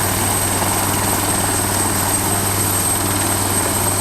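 Attack helicopter running steadily: two high, thin turbine whines sit over the rapid, even low beating of the rotor, with no change in pitch or loudness.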